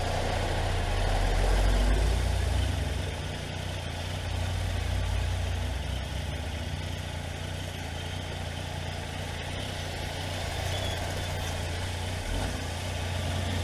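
Triumph Tiger motorcycle engine running at low revs, a steady low hum that swells slightly about two seconds in.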